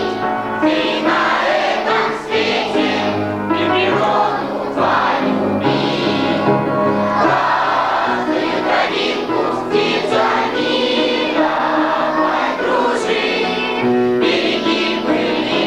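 A song sung by a group of voices with instrumental accompaniment.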